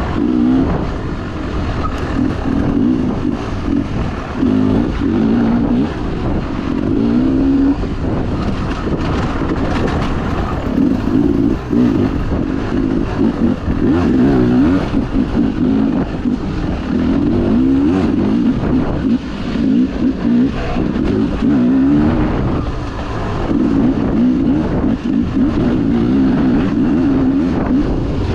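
Beta 300 two-stroke dirt bike engine under race load, revving up and dropping back again and again as the throttle is worked on and off. A few sharp clicks are heard along the way.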